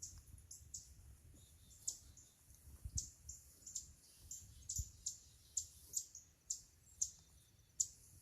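A small songbird giving a steady series of short, high chip notes, about two a second, with a couple of faint low thumps in the middle.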